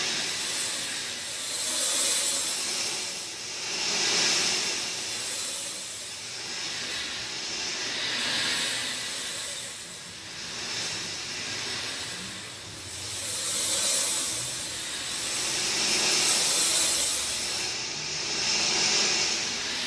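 Steady rain falling, a dense hiss that swells and eases every couple of seconds.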